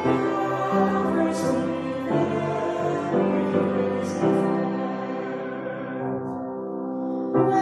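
Slow, sung music with long held notes.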